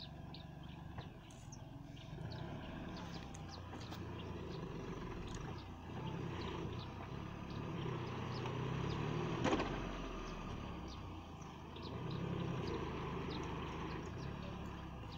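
Mahindra TUV300's three-cylinder diesel engine running and revving up and down in about three long surges as the two-wheel-drive SUV strains to pull out of deep sand. A single sharp knock comes about nine and a half seconds in.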